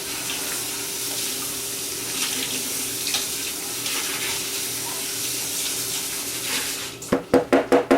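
Water running steadily from a tap, an even hiss, with a quick series of rapid pitched pulses starting near the end.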